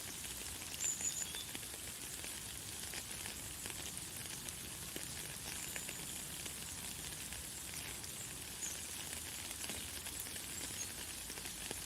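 Light, fine rain falling steadily: an even, soft hiss of many tiny drops. A few faint, short, high bird chirps are heard now and then.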